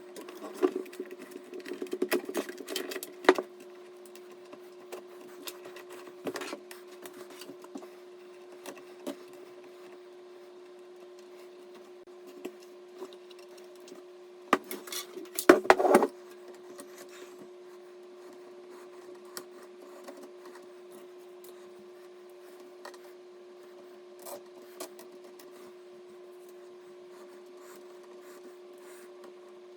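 Rubbing, scraping and clicking handling noises, in two busy clusters, near the start and about halfway through, with scattered light clicks between, over a steady low hum.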